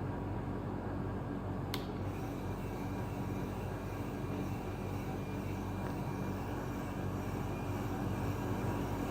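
Steady low mechanical hum from an RC model truck running, with one sharp click a little under two seconds in.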